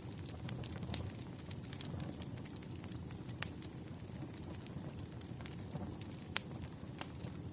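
Wood fire crackling: a steady low rumble of burning logs with sharp pops scattered irregularly through it, two louder pops standing out midway and near the end.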